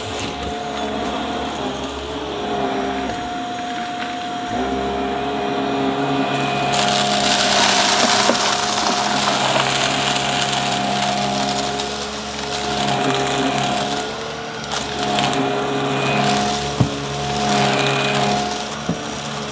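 Upright vacuum cleaner running with a steady motor hum and whine. From about seven seconds in, a loud hissing, crunchy rush lasts several seconds as it picks up debris. A sharp click comes near the end.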